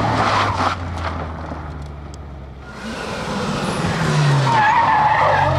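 Rally car engine at high revs passing at speed, fading about two seconds in, then growing louder again as engine noise builds toward the end.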